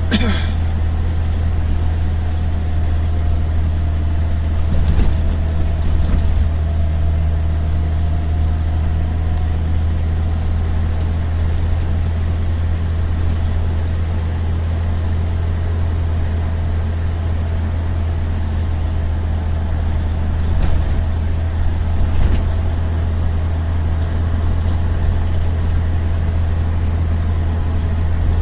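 A motor vehicle driving along a road: a steady low engine and road drone, with a few brief knocks.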